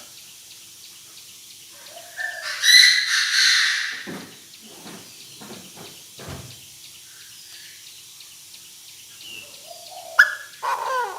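Chinese francolin (đa đa) calling loudly with a harsh, layered call about two seconds in that lasts nearly two seconds, then a second, shorter call near the end.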